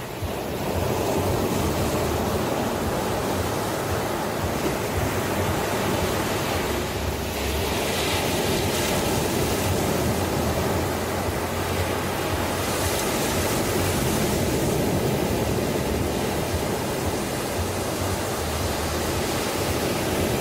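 Ocean waves washing onto a shore: a steady rush of surf, with the hiss swelling as waves break about eight seconds in and again around thirteen to fifteen seconds.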